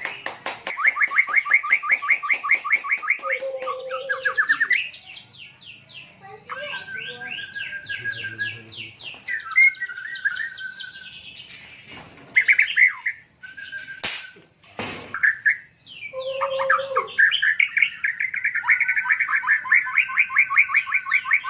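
White-rumped shama (murai batu) singing at full volume: fast trills of rapidly repeated whistled notes, with short whistles and a sparser stretch in the middle. The rapid trilling picks up again toward the end.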